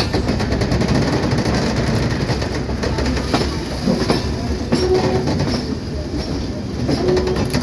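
Train wheels rolling over a railway turnout, clacking over the rail joints and switch points, with short wheel squeals a couple of times.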